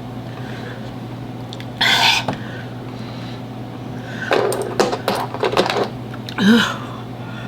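A woman sucking air in sharp, hissing breaths through her mouth, in several short bursts, with a brief pitched groan near the end: the pained breathing of someone with a mouth burning from an extremely hot chili chip.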